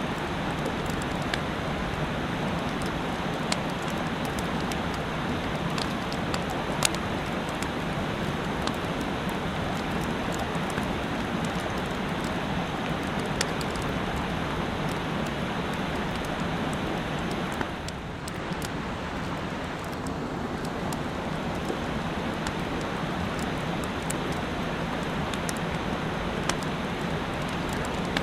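Mountain stream rushing steadily, with faint sharp ticks now and then and a slight easing of the rush about eighteen seconds in.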